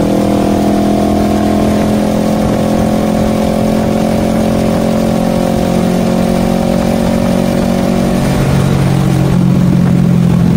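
Kawasaki Versys 650's parallel-twin engine running under way, heard from the rider's seat. The engine note falls slowly, then shifts to a lower, stronger tone about eight seconds in.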